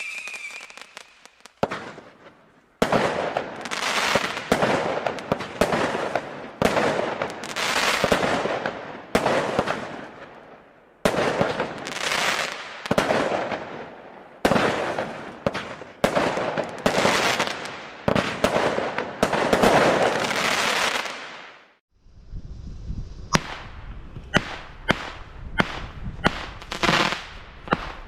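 Consumer firework battery firing a run of shots, each a sharp bang followed by a crackling tail, roughly one a second. A whistle fades out at the start, and about three-quarters of the way through the sound cuts to quicker, sharper cracks.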